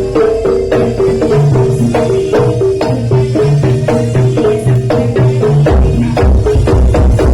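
Live Javanese jaranan gamelan music: struck pitched notes stepping through a repeating melody over drums, with quick, steady strokes.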